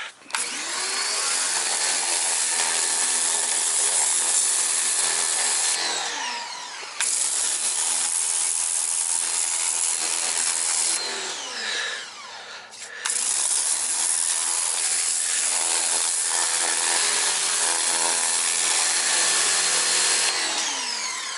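Ryobi pressure washer spraying in three long runs, a steady hiss of water over the pump's motor. Each run stops with the motor winding down in a falling whine.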